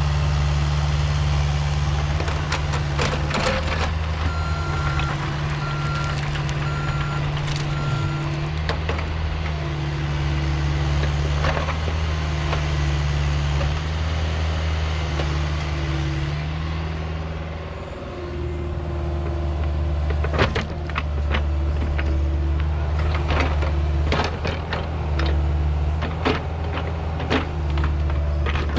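Heavy diesel equipment engine running under varying load, its note shifting as it works. A few seconds in, a reversing alarm beeps four times; in the second half there are sharp knocks and cracks.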